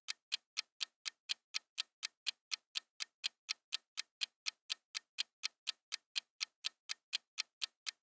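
Clock-style ticking countdown sound effect, about four even ticks a second.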